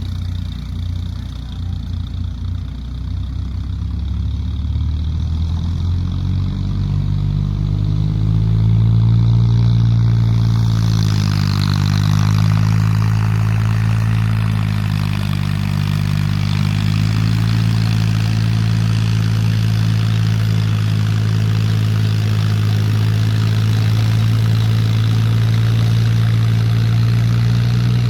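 Mahindra 265 tractor's three-cylinder diesel engine idling low, then speeding up about six seconds in. It sags briefly and recovers near the middle, then runs steadily at the higher engine speed.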